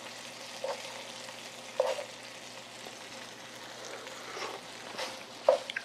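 Seasoned dried squid strips in gochujang sauce sizzling steadily in a frying pan, the sauce mostly cooked down. A few short knocks and scrapes sound over the sizzle.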